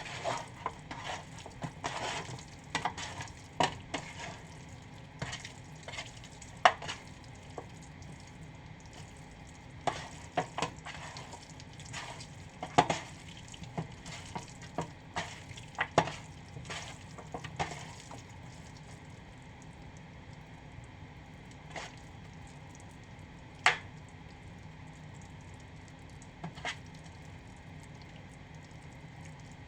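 Chicken wings frying in a pan with a steady sizzle, stirred with a utensil that clicks and scrapes against the pan many times during the first half. After that mostly sizzle, with two single knocks near the end.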